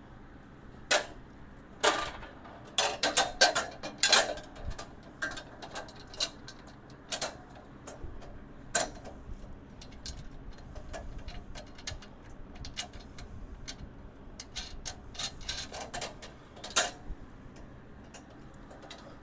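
Light metal clicks, clinks and taps of steel tool cart parts and bolts being handled and fitted together, coming irregularly with a quick cluster a few seconds in and another near the end.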